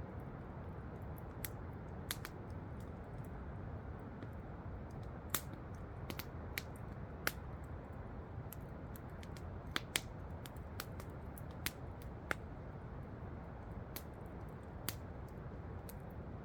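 Wood campfire crackling, with irregular sharp pops and snaps over a steady low rush of falling water.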